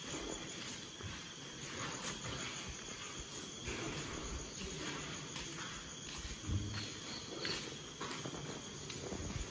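Crickets trilling steadily on one high note, with the footsteps of people walking on a concrete floor and one heavier thump about two-thirds of the way in.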